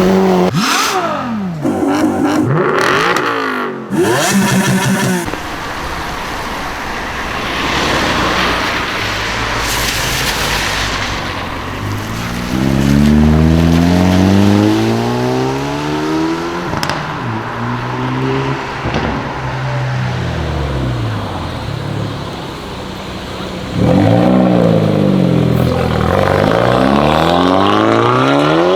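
Hyundai i30 N 2.0-litre turbocharged four-cylinder engines revving and accelerating, in several short clips cut together. The revs rise and fall again and again, with a jump in loudness about 24 seconds in.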